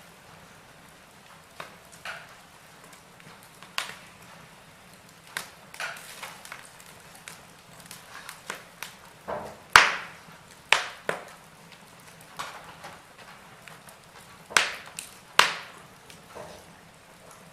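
Wood fire in a fireplace crackling: irregular sharp pops and snaps over a faint steady hiss, the loudest pop about ten seconds in.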